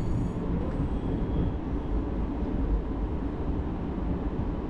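Local train running along the track at speed, heard from inside the passenger car: a steady rumble of wheels on rail and the car's running noise.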